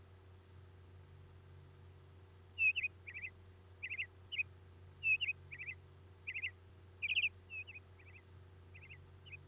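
A songbird singing: bursts of short, sharp high chirps in quick groups of two or three, starting about two and a half seconds in and repeating every half second or so. A steady low hum runs underneath.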